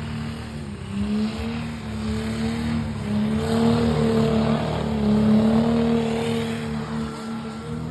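El Camino's engine held at high revs during a burnout, its pitch wavering up and down as the throttle is worked, over a steady rushing noise.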